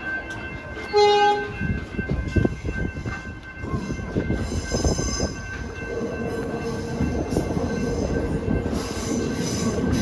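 Commuter train with a short horn blast about a second in, then high-pitched wheel squeal and a steady hum over the rumble of the running train.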